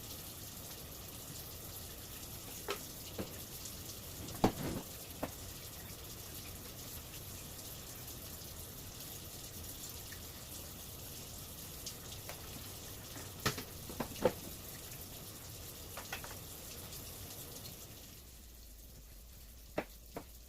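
Steady rush of running water with scattered sharp knocks and clinks; the rush drops away near the end.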